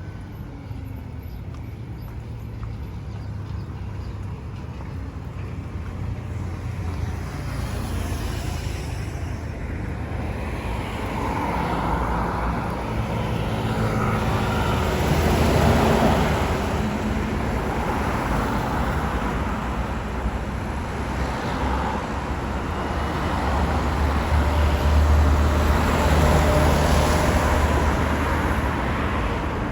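Road traffic: cars driving past, a steady wash of engine rumble and tyre noise that swells as vehicles pass, loudest about halfway through and again near the end.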